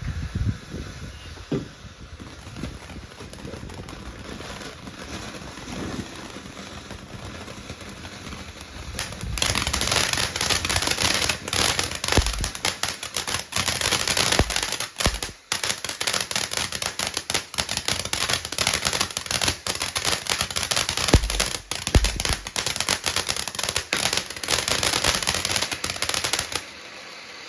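Fireworks going off: a few scattered bangs and thumps, then from about nine seconds in a long, dense run of rapid crackling pops, like a string of firecrackers, that stops abruptly near the end.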